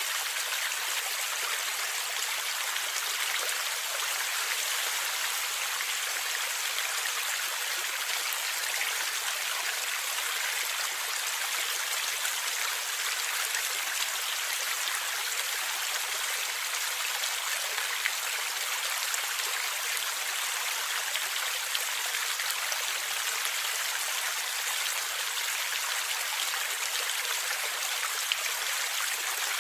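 River water flowing and gurgling steadily, with a few brief splashes standing out.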